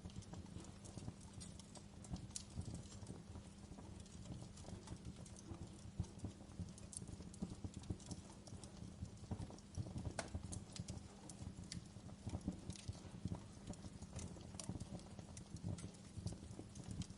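Wood fire burning in a fireplace, crackling with irregular pops and snaps over a steady low background noise.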